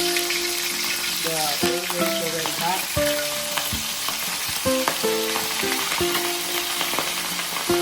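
Chicken pieces frying in hot oil, a steady sizzle with scattered small crackles and pops. Background music with held melody notes plays underneath.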